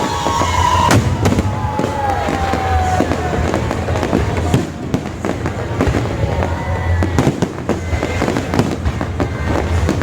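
Fireworks display: a rapid, irregular string of bangs and crackles from aerial shells, with music playing along and a tone sliding down in pitch in the first few seconds.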